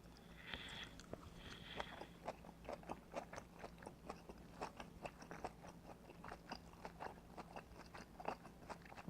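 Close-up chewing of a mouthful of smoked pork belly wrapped in napa cabbage kimchi: soft crunches and wet mouth clicks, about two or three a second, after two brief scraping noises in the first couple of seconds.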